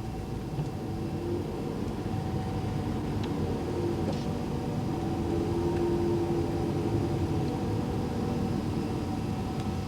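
Steady low rumble of car engines in slow, jammed city traffic, slightly louder around the middle.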